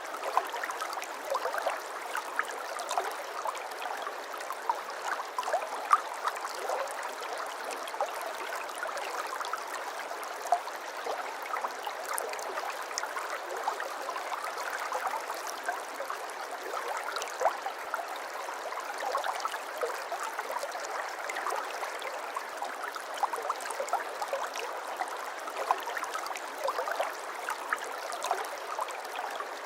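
Water in a small stream flowing and trickling steadily: an even rush dotted with many small splashes and plinks, with no deep rumble.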